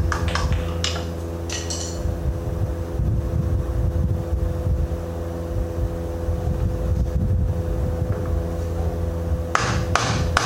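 Steady low machine drone holding a couple of fixed tones, with several sharp hammer blows on metal in the first two seconds and again near the end, typical of driving parts loose during kingpin removal.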